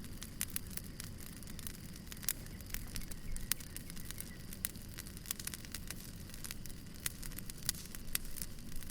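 Wood fire crackling: frequent sharp pops and snaps at irregular intervals over a steady low rumble of burning.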